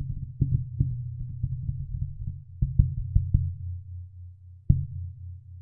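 Heartbeat sound effect: quick low thumps over a steady low hum, thinning out to a single heavy beat near the end.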